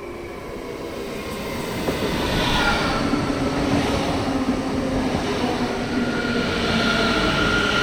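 A train approaching on the main line, growing louder over the first few seconds, then running close by with a steady rumble of wheels on rail and a thin whine.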